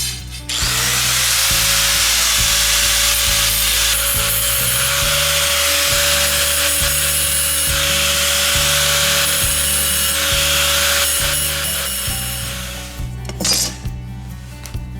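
An electric power tool spins up about half a second in and runs under load with a loud, steady grinding noise and a constant motor tone for about twelve seconds, then winds down. Background music plays underneath.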